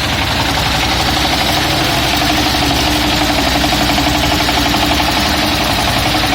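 YTO tractor's diesel engine running at a steady idle.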